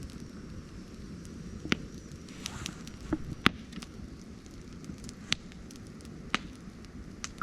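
Mixed-hardwood wood fire crackling, with irregular sharp pops about once a second, the loudest about halfway through, over a low steady rumble.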